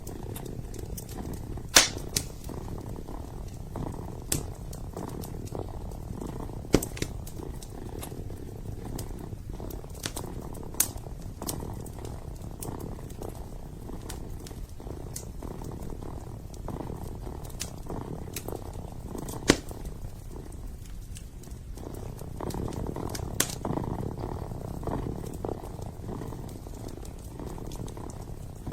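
Kitten purring steadily, with occasional sharp pops and crackles from a burning wood fire in a fireplace.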